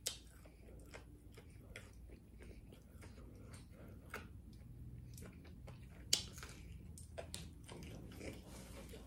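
Quiet chewing of fried pork chop, with scattered soft mouth clicks and smacks; the sharpest click comes about six seconds in.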